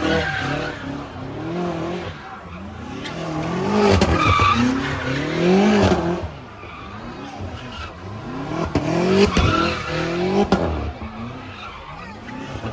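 A car's engine revving up and dropping back over and over while its tyres squeal and skid, as a car spinning donuts does.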